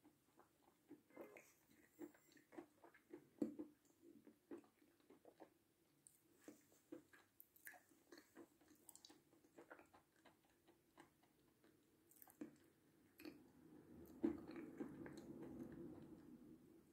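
Faint chewing of crisp, hardish meringue with the mouth closed: irregular soft crunches and mouth clicks, with a longer, louder rough stretch near the end.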